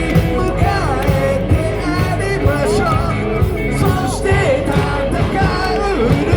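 Live rock band playing a song, a singer's voice over steady drums and bass.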